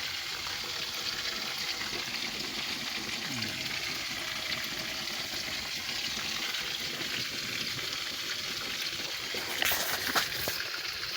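Fish frying in hot oil in a pan, a steady sizzle, with a couple of clatters about ten seconds in.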